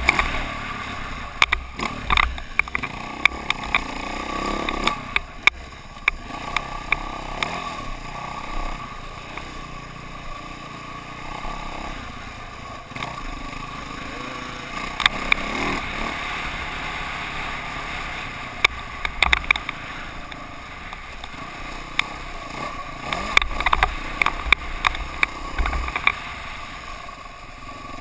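KTM dirt bike running, with frequent sharp clicks and knocks over its steady engine sound.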